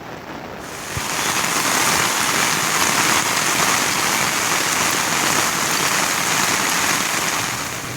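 Heavy rain falling, a steady hiss that comes in louder about a second in and eases a little near the end.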